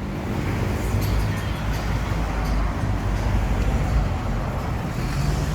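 A car engine running amid street traffic noise, with a steady low rumble.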